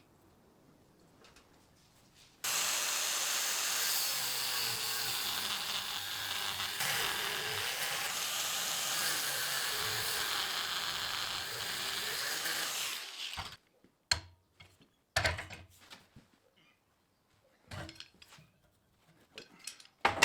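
A harsh, steady power-tool noise on steel starts about two seconds in, runs about eleven seconds and stops abruptly. A few scattered knocks of metal being handled follow.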